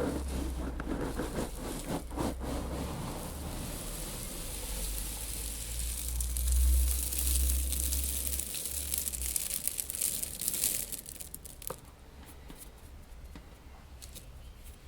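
A mass of loose seeds shifting and rustling, with a dense hiss of many small grains that is loudest from about six to eleven seconds in and fainter after that.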